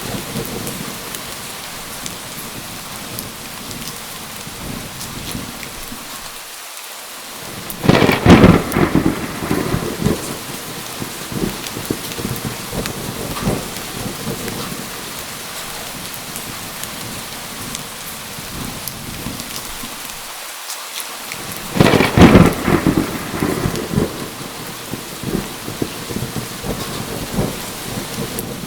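Steady heavy rain with two loud thunderclaps, one about eight seconds in and another about twenty-two seconds in, each crackling and then rumbling away over a few seconds.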